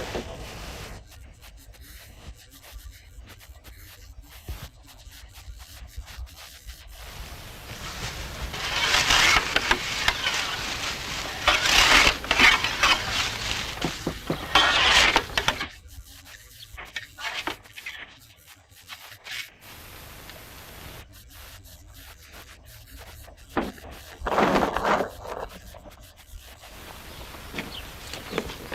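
A plastering tool rubbing and scraping straw-based render across a wall surface, in passes of a few seconds with quieter stretches between.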